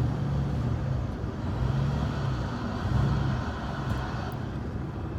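Truck's V8 engine and exhaust droning on the road, the low rumble swelling and easing several times.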